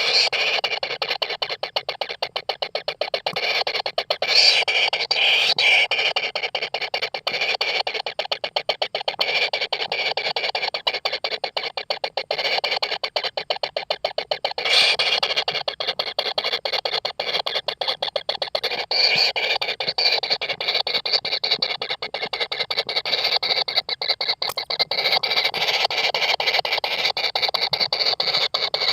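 Kingfisher nestlings giving a continuous rapid, rasping begging churr. A few louder swells come at about 4 s, 15 s and 19 s.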